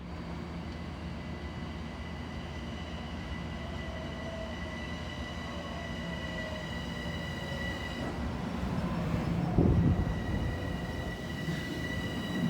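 Train at a station with a steady low rumble and a high, steady electric-sounding whine. A lower tone slowly falls in pitch through the middle, and there is a brief loud low rumble near the end.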